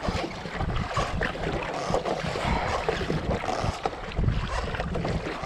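Wind buffeting the microphone over water splashing against a kayak's hull, an uneven rumbling rush.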